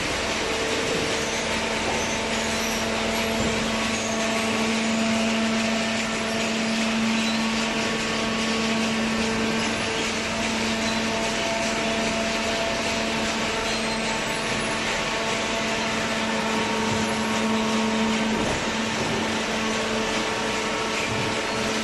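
Waste paper baler running: a steady machine noise with a constant low hum, and a higher tone that fades in and out.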